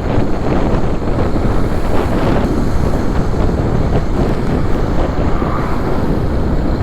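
Wind buffeting the microphone while riding on the road: a loud, steady rumble with no pauses.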